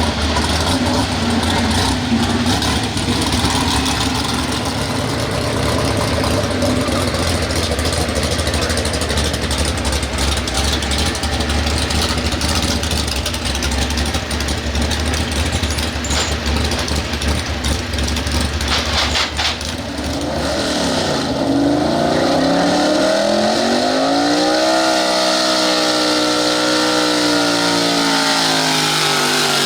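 Small-block super stock 4x4 pulling truck's engine rumbling at low speed, then about two-thirds of the way in revving hard, its pitch dipping and then climbing steeply before holding at high rpm as the truck makes its run.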